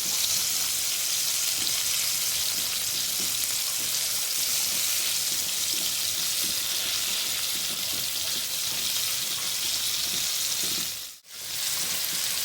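Flour-coated chicken pieces deep-frying in hot oil in a karahi, a steady sizzle that drops out for a moment near the end.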